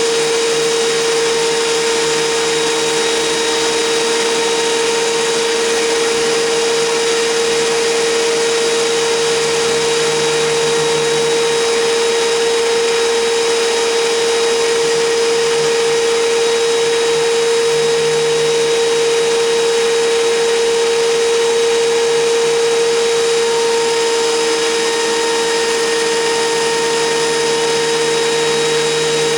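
WEN 6552T 13-inch thickness planer running steadily, a loud, even motor whine with a constant tone throughout.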